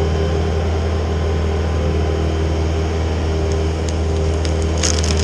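A heavy engine running steadily. In the last second or so, wood cracks and splinters in a quickening run of sharp snaps as the tree's hinge starts to give way and the tree begins to go over.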